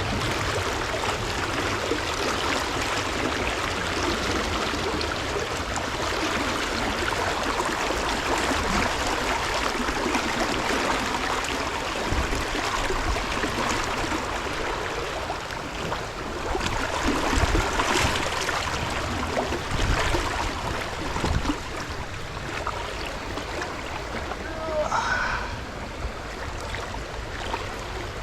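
Steady rushing of a stream of moving water. A few soft knocks come in the middle, and a brief rising whistle-like sound comes near the end.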